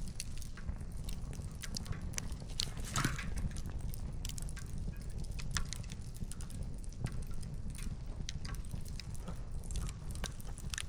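Wood fire crackling: irregular sharp pops and snaps of burning firewood, bunching into a quick flurry about three seconds in, over a low steady rumble.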